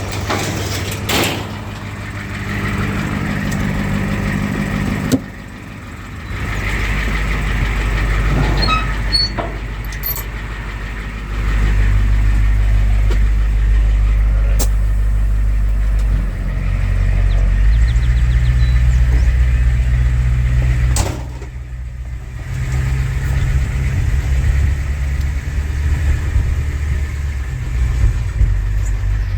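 Truck engine idling steadily just after a cold start, with a low rumble that steps up and down in level a few times and a few sharp clicks.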